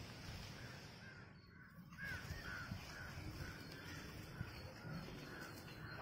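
A bird calling in a quick, regular series of short calls, about three a second, starting about two seconds in, over a steady high hiss.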